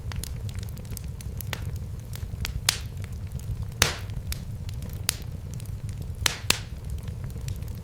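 Wood fire crackling in a fireplace: irregular sharp pops and snaps, a few louder ones, over a steady low rumble of burning.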